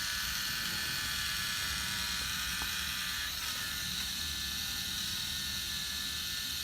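Small electric motor of a K'nex model engine running steadily, a whir with the plastic gears, pulleys and moving parts turning.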